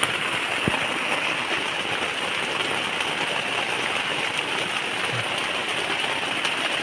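Heavy rain pouring steadily onto a tent, a dense even hiss.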